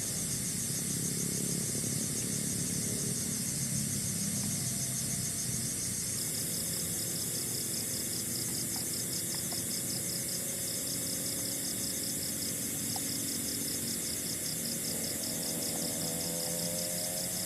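Forest insects chirping in a fast, evenly pulsing chorus, over a steady low rumble.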